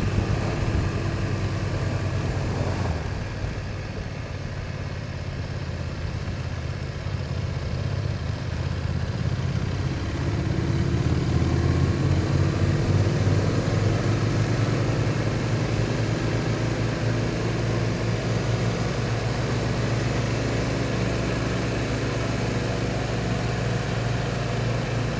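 BMW R1200's boxer twin engine running as the motorcycle rides along, a steady engine note that gets somewhat louder about ten seconds in.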